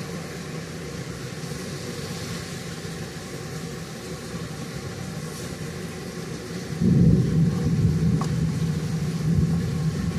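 Steady rain ambience, a soft even hiss. About seven seconds in, a loud low rumble starts suddenly and carries on to the end, far louder than the rain.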